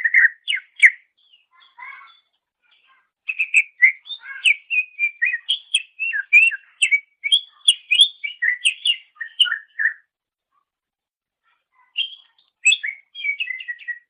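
Cucak ijo (green leafbird) singing a fast, varied song of short chirps and whistled notes. It comes in three runs, with the longest in the middle and brief pauses between them.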